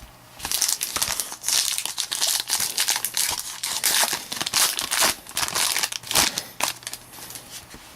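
Foil wrapper of a football card pack being torn open and crinkled, a dense stretch of crackling and crumpling that thins out near the end.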